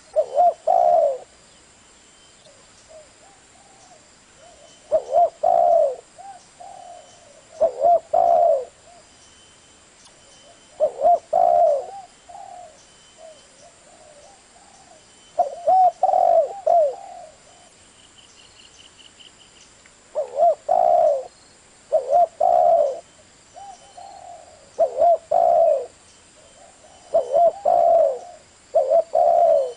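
Spotted dove cooing: short phrases of coos repeated every few seconds, about eight phrases in all. A faint high chirping pulse comes once, about two thirds of the way through.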